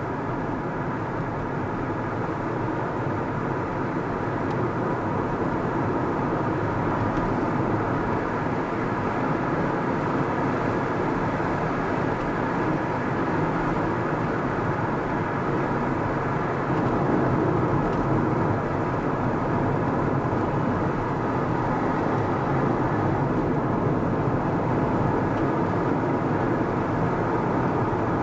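Car driving along a road: steady engine and tyre noise, getting a little louder about two-thirds of the way through.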